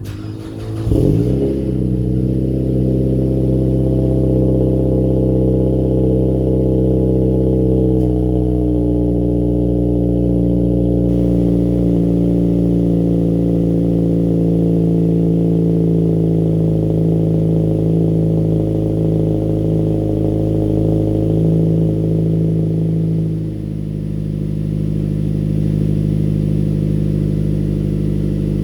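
Vehicle engine on a cold start after sitting about two weeks: it catches and revs up in the first second or two, then runs at a steady fast idle. About 23 seconds in the idle drops a little lower and settles.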